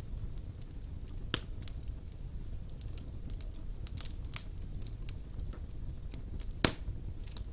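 Wood fire burning in a fireplace: a steady low rumble of flames with scattered crackles and sharp pops from the burning logs, the loudest pop near the end.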